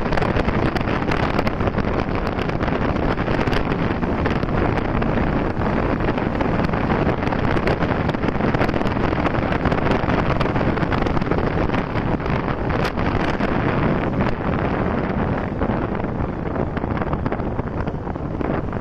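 Steady wind noise rushing over the microphone of a moving motorcycle, with road noise beneath.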